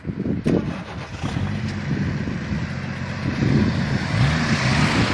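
A motor vehicle engine running with a wavering low hum, and a hiss that builds up and grows loudest near the end.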